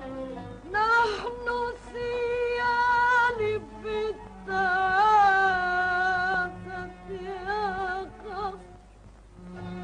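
Woman singing a classical Arabic song over instrumental accompaniment, sliding up into long held notes with wavering ornaments, fading out near the end.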